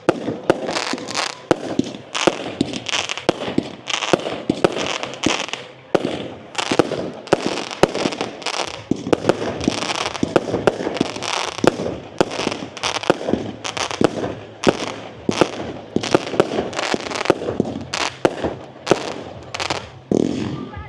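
Firework display going off in a rapid, continuous barrage of sharp bangs and crackles, several reports a second.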